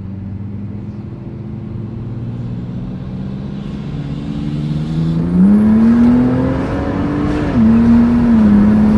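Turbocharged Ecotec 3.8 V6 heard from inside the Commodore, running steadily and then accelerating hard from about four seconds in, its note rising and getting louder. A faint high whine joins about five seconds in. Near eight seconds the engine pitch drops sharply, then holds steady.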